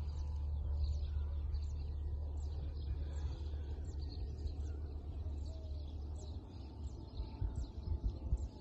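Small birds chirping: a steady series of short, high chirps, a couple each second, over a steady low rumble.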